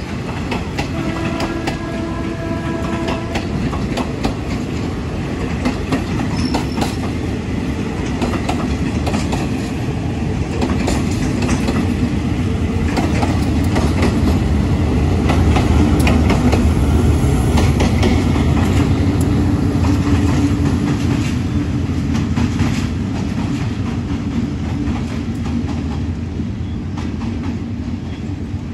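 Train of passenger coaches running past on the adjacent track: a steady clickety-clack of wheels over rail joints over a continuous rumble, which swells around the middle as the diesel locomotive goes by. A short, steady held tone sounds about a second in.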